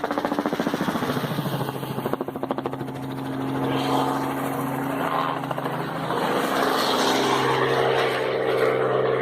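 Helicopter flying close by: a fast rotor chop in the first few seconds gives way to a steady engine drone that grows a little louder.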